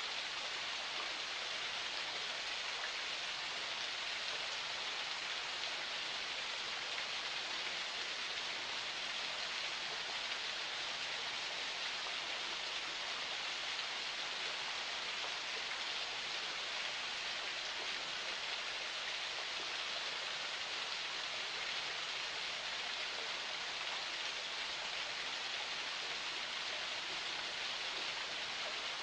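Forest spring water flowing steadily: an even, bright rush of running water that does not change.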